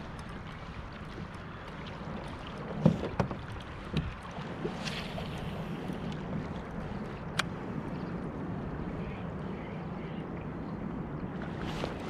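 Kayak moving on open water, with wind on the microphone making a steady rush. A few sharp knocks come about three and four seconds in, and a single click later on.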